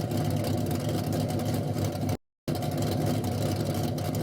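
A 5.3 L LS-based V8 with an aftermarket cam idling steadily through a 4-inch Mufflex cat-back exhaust with a Spintech muffler. The sound cuts out briefly about two seconds in, then picks up again.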